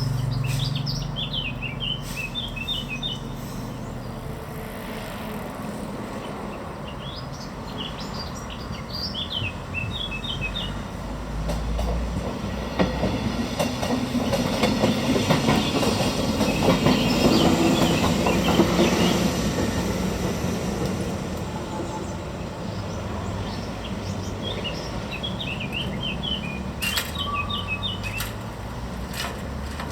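A train on the FLP line passing over the crossing: its wheels clatter over the rails, building from about twelve seconds in to a peak around eighteen seconds, then fading. Birds chirp in the quieter stretches before and after.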